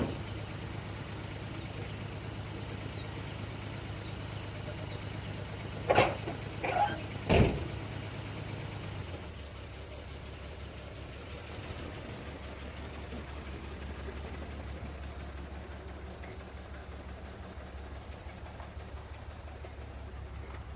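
A 1975 Plymouth Duster's engine idling steadily, with three loud knocks about six to seven and a half seconds in. About nine seconds in, the low hum drops to a lower, quieter note.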